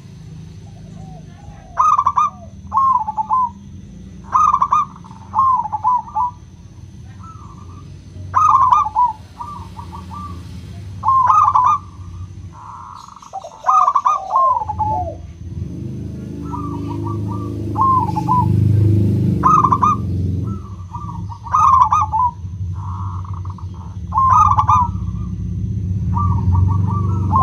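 Zebra dove (local perkutut) calling: short phrases of quick, stuttering coos, repeated about every two to three seconds. A low, steady background sound grows louder from about halfway through.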